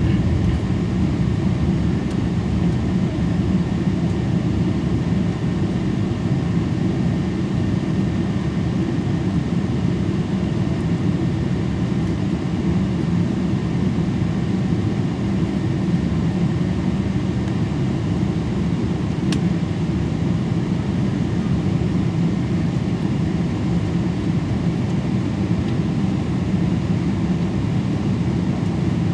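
Steady cabin noise inside a Boeing 777-224 airliner: the jet engines and airflow making a constant low rumble. There is one faint click about two-thirds of the way through.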